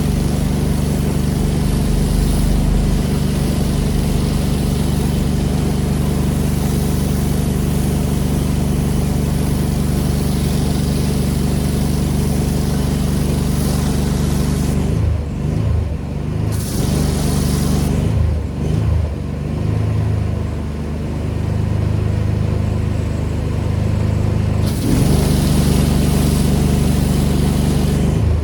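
Pressure washer's engine running steadily under the hiss of the high-pressure spray. About halfway the spray stops twice, for a few seconds the second time, and the engine note wavers. The spray starts again near the end.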